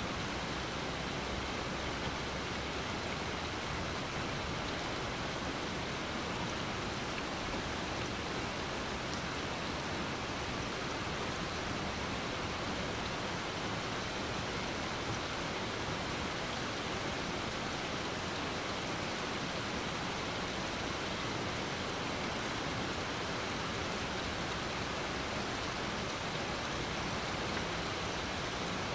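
Steady rain falling on a grassy lawn and trees, an even, unbroken hiss.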